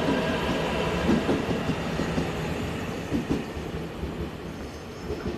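A train running through the station, its wheels knocking over the rail joints, the sound fading steadily as it moves away.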